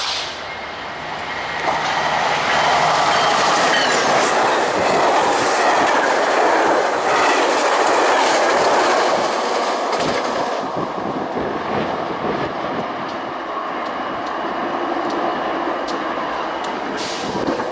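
Metrolink commuter train passing close by, its wheels on the rails making a steady rolling noise. The noise swells about two seconds in and eases somewhat after about ten seconds.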